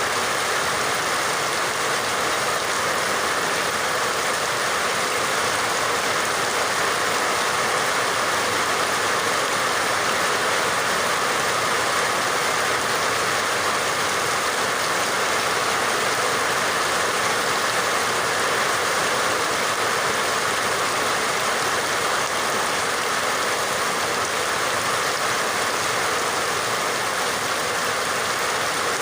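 Steady rain falling, an even hiss that holds at the same level throughout without breaks or single drops standing out.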